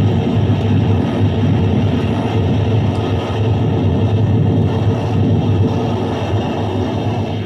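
Electronic noise music: a loud, dense, steady wall of noise with a strong low hum underneath.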